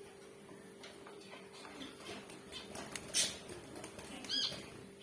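Zebra finches giving a few short, high calls, the loudest just after three seconds and another near the end, with light fluttering and small clicks over a steady faint hum.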